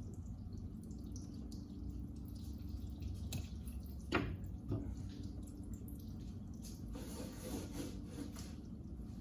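Coolant dripping from the tractor's engine as the water pump is taken off, with a few sharp clicks about three to five seconds in, over a steady low hum.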